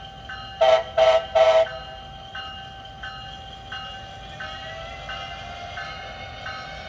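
Train horn sounding three short blasts, followed by a steady tone and a faint pulse repeating about every two-thirds of a second.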